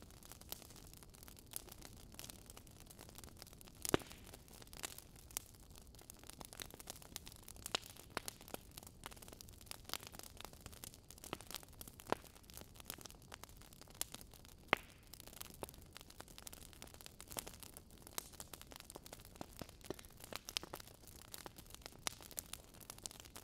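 Faint kitchen handling sounds: scattered light clicks and taps of utensils against a steel mixing bowl and a knife on a plastic cutting board, over a steady low hiss.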